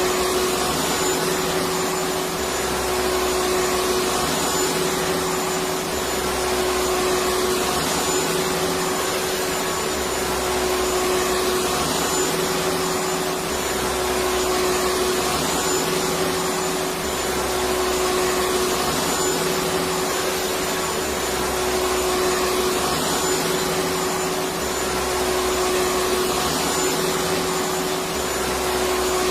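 Electric vacuum cleaner running continuously: a steady whooshing rush of air with a constant motor hum, and a faint low pulsing that repeats about every two seconds.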